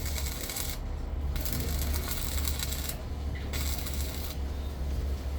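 Machinery running with a steady low hum, under a rattling, scraping noise that stops and starts several times.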